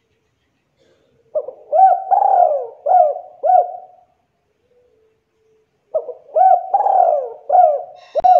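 Spotted dove (tekukur) cooing: two phrases of about five coo notes each, with a gap of about two seconds between them. A short sharp click comes near the end, during the second phrase.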